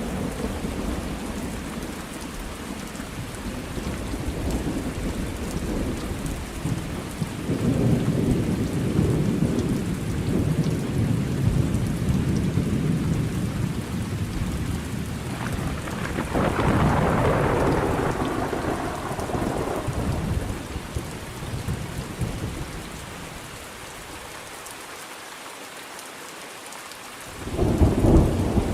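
Thunderstorm with steady rain and rolling thunder. Long low rumbles come and go, a brighter, sharper peal arrives a little past halfway, and after a brief lull a new rumble begins near the end.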